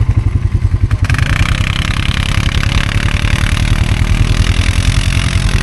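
ATV engine running with a steady low throb. From about a second in, a rushing hiss rides over it until near the end.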